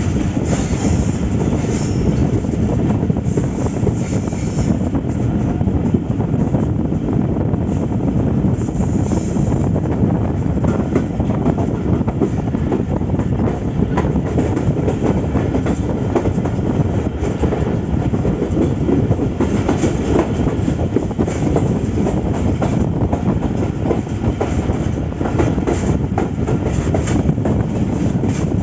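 Pakistan Railways express train running along the track: a steady rumble of wheels on rail, with scattered clicks and brief high-pitched patches.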